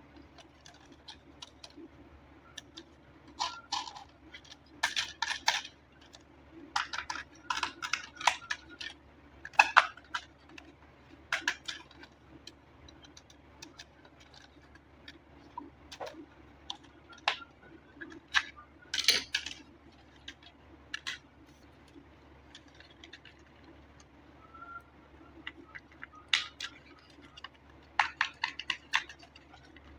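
Hands handling an RC toy car and its packaging: irregular clicks, taps and rustles in short bursts with pauses between them.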